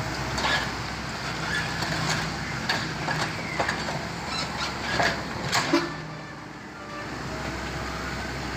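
A heavy construction machine's engine runs steadily, with a series of sharp knocks and clanks. The engine sound drops away briefly about six seconds in, then returns.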